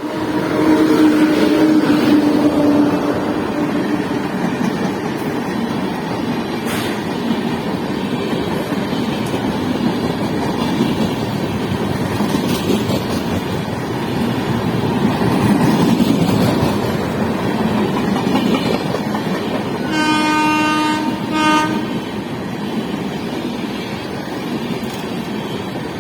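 Chennai Rajdhani Express passing through a station at speed without stopping, its coaches giving a steady rumble and clatter on the rails. The locomotive horn sounds near the start, then twice more, a longer blast and a short one, about twenty seconds in.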